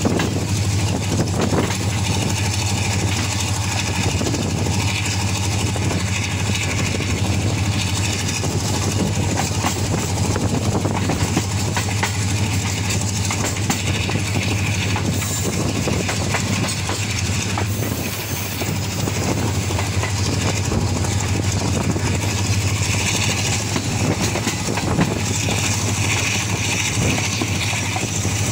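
Diesel-electric locomotive engine running under throttle, a steady low drone that holds level throughout, over the noise of the moving train.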